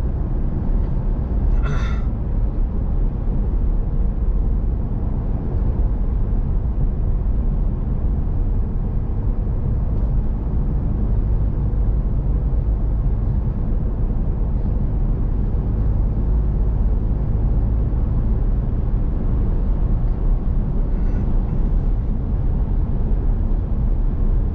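Steady low rumble of a truck driving along, with road and engine noise heard from inside the cab. A brief high squeak comes about two seconds in.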